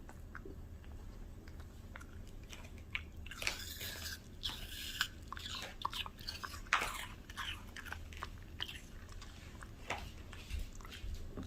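Bichon Frise dog chewing and crunching a piece of raw produce. A few faint clicks at first, then a dense run of crunchy bites from about three seconds in, thinning to scattered bites near the end.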